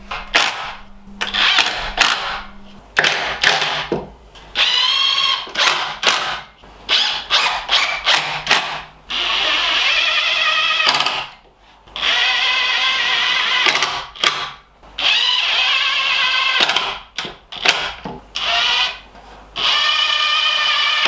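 Power drill run in repeated bursts, with short blips at first and then longer runs of about two seconds each, fixing the mounting pieces of an oak table base with screws.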